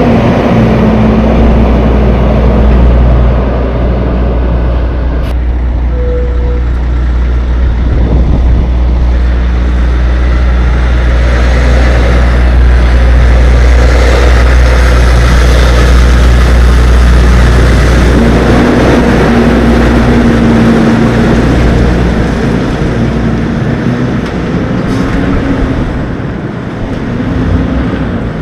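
Semi-truck running down the road, heard from inside the cab: a loud, steady low diesel drone with road noise. The low rumble eases off about two-thirds of the way through.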